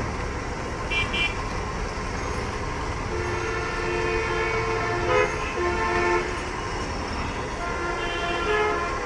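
Vehicle horns honking over a steady rumble of street traffic. Several held horn tones at different pitches sound through the middle, with a short high beep about a second in and another horn near the end.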